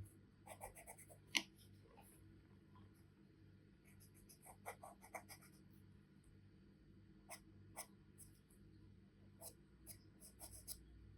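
Charcoal drawn across paper in short, intermittent strokes, with one sharp tap about a second and a half in.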